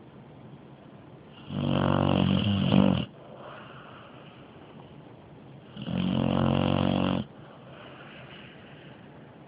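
Sleeping pit bull snoring very loud: two long snores, each about a second and a half and about four seconds apart, much quieter in between.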